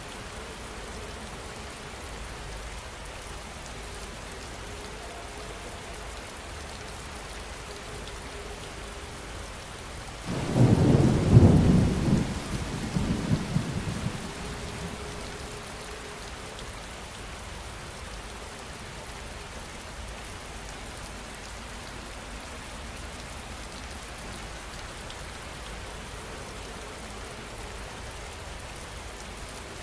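Steady heavy rain, with one loud clap of thunder about a third of the way in that rumbles on for about four seconds before fading back under the rain.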